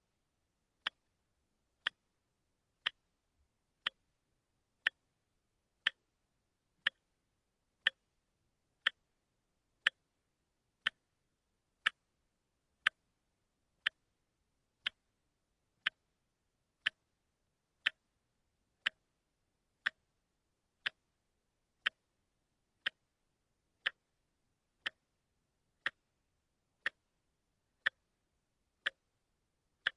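A watch ticking steadily, one sharp, even tick a second.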